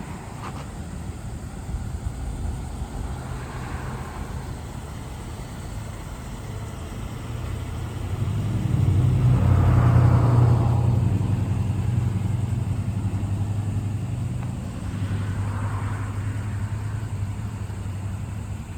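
2021 Chevrolet LCF box truck's engine running. It builds to its loudest about halfway through, then settles back to a steady hum.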